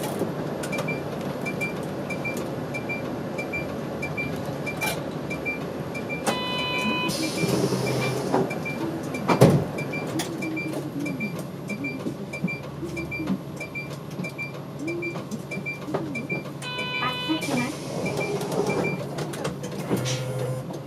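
City route bus with its engine idling and the turn-signal relay ticking about twice a second. Twice a short electronic chime sounds, each followed by a hiss of air, as the doors are worked at a stop, and there is one sharp knock about nine seconds in.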